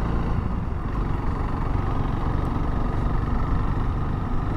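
Honda CRF300L's single-cylinder engine running steadily as the motorcycle rides along at low speed.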